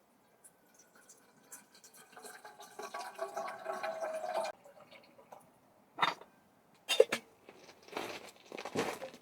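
A drink poured into a glass, the sound building for about three seconds and stopping suddenly. A few sharp clinks and knocks of tableware follow.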